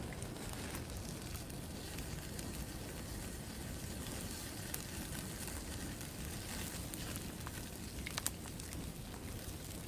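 Fire of freshly cut green wood, started with used motor oil, burning steadily with a few sharp pops, two of them close together about eight seconds in.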